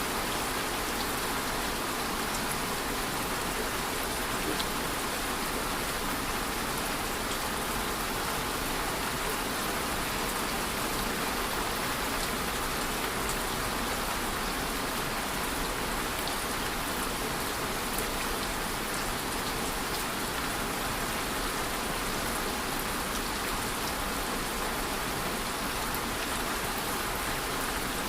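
Steady rain falling, an even hiss with individual drops ticking on a surface throughout.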